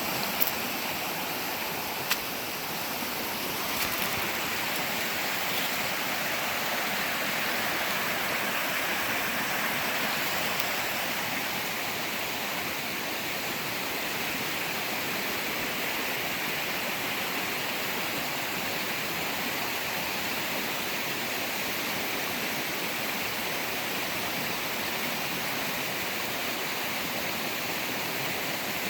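Steady rushing of a flowing stream over rocks, with a few brief clicks in the first few seconds.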